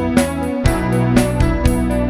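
Instrumental pop band music: held keyboard chords over a bass line, with a steady beat of about two strikes a second.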